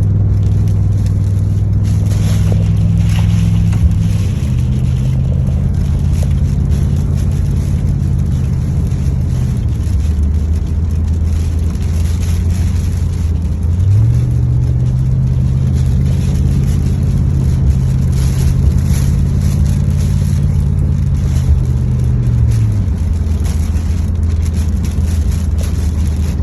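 Car driving, heard from inside the cabin: a steady low engine drone with road noise. The engine's pitch steps down twice, rises about halfway through and drops again near the end as the car changes speed.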